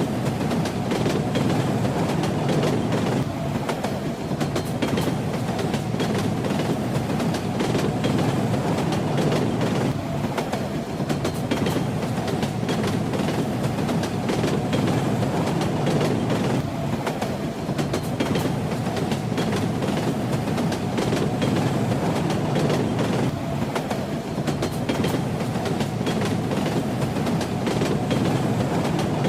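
Train carriage running along the rails: a steady rumble with the clatter of the wheels over the rail joints.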